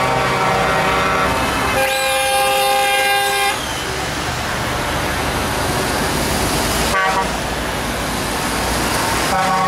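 Truck horns honking in long held blasts, one after another, over the running of truck engines, with a short rising-then-falling whistle about two seconds in. About three and a half seconds in the horns stop and a steady rush of engines and traffic remains, until another horn starts near the end.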